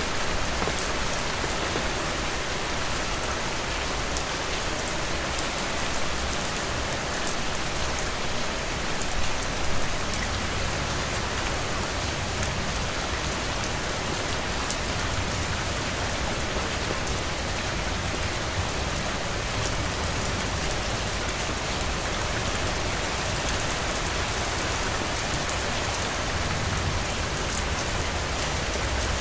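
Heavy rain falling steadily on a roof: a dense, even hiss with a low rumble beneath and scattered drop ticks, briefly a little louder about nine seconds in.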